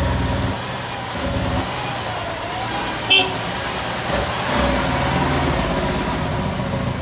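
Truck engine running with a pulsing low note, with a brief sharp sound about three seconds in.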